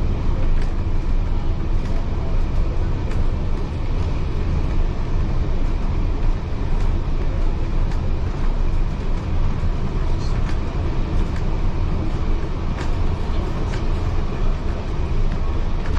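Heritage railway carriage running along the track: a steady low rumble of wheels on rail, with scattered sharp clicks and rattles.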